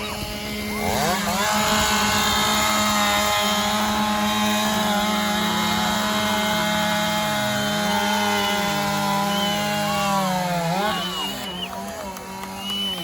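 Two-stroke chainsaw revved up to full throttle about a second in and held at high revs with a wavering pitch, then dropping back off around eleven seconds in. A lower, steady engine tone runs underneath.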